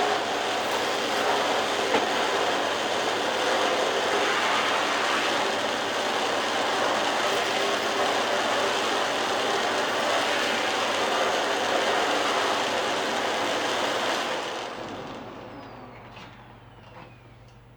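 Philips Performer Pro canister vacuum cleaner running steadily, then switched off about fifteen seconds in, its motor whine falling as it spins down.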